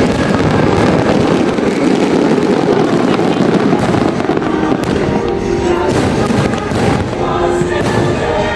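Fireworks display bursting in quick succession, many pops and crackles overlapping, over the show's music soundtrack.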